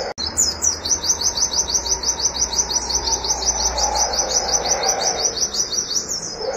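White-eye (pleci) singing a fast, unbroken string of high, sharp 'wit' notes, about seven or eight a second, in the rapid 'nembak' style. There is a brief break just after the start.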